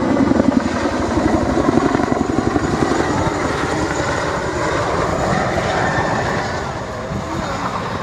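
Jet engines of display aircraft passing overhead, a loud rumbling roar with a rapid low flutter that slowly fades as the jets draw away.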